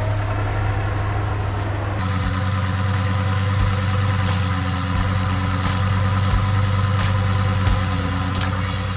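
Lamborghini engine idling with a steady low drone, with scattered light clicks over it.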